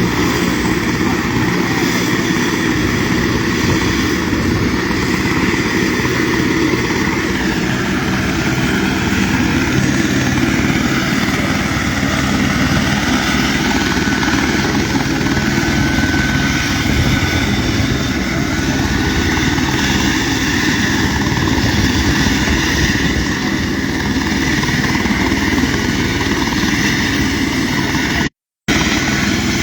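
An engine running steadily and loudly, unchanged throughout, with a sudden short dropout about 28 seconds in.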